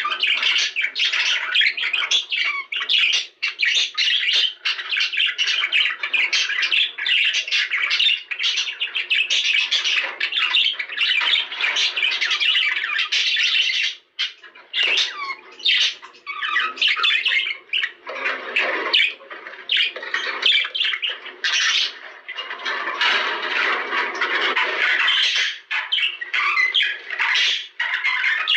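A flock of budgerigars chattering without a break: a dense stream of quick squawks, chirps and warbles.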